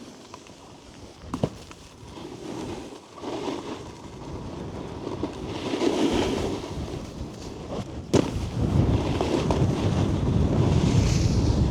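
Snowboard riding on snow: the board's edges scraping and hissing with wind noise on the camera mic, building as speed picks up and loudest from about eight seconds in. A sharp knock about eight seconds in.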